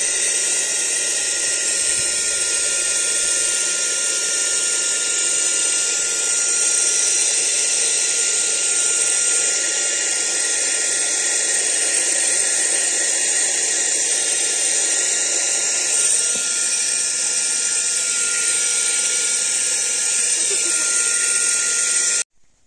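Aspiring Windstorm 3 cordless car vacuum cleaner running steadily: a high, even motor whine over rushing air, which stops abruptly near the end.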